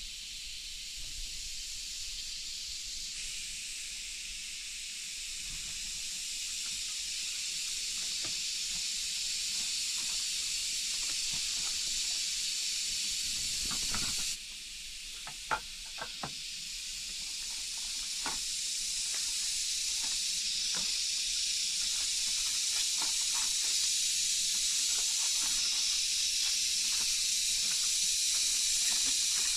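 Steady hiss of rain falling in a forest, with scattered short sharp ticks in the middle and later part.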